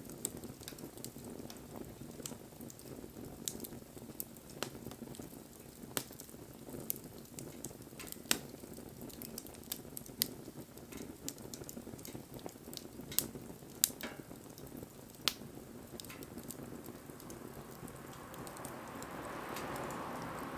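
Wood fire burning with a steady low rush of flames and irregular sharp crackles and pops. A hiss swells near the end.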